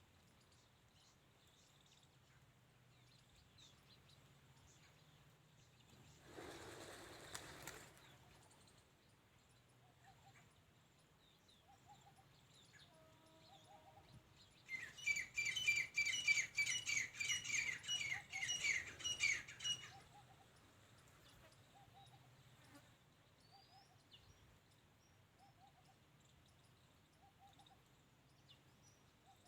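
Birds calling. A loud, rapid series of high chirping notes, about four a second, runs for about five seconds in the middle. Faint soft notes repeat about once a second, and a short burst of noise comes about six seconds in.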